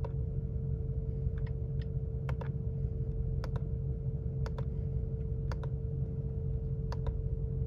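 The 2020 Mercedes-Benz G63 AMG's twin-turbo V8 idling as a steady low rumble with a constant hum, overlaid by sharp clicks, mostly in close pairs, that come irregularly about once a second.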